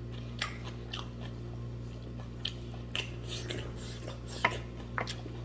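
Close-up eating sounds: chewing and wet mouth clicks, scattered and irregular, from someone eating buffalo leg soup with rice.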